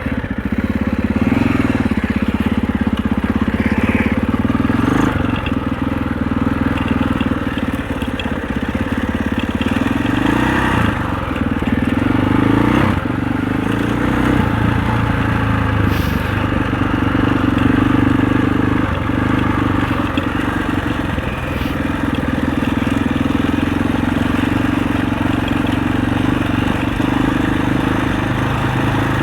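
Husaberg 650 single-cylinder four-stroke enduro bike engine running under load, its pitch rising and falling as the throttle opens and closes, with a few short knocks.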